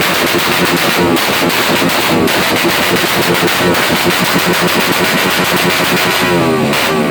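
A vehicle engine is revved hard while the vehicle stands still, in a rev-bomb display, with a rapid, rattling firing throughout. Near the end the pitch sweeps up again.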